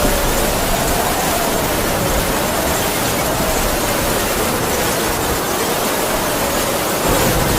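Heavy rain with a howling wind. The rain is a steady hiss, and over it a single whistling tone slowly wavers up and down.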